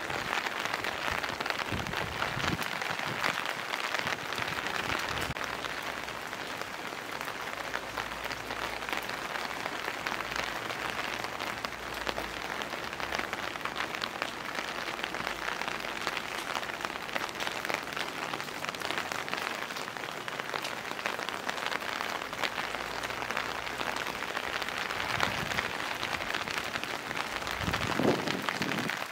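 Steady rain pattering: a dense hiss of many small drops, with a brief low rumble near the end.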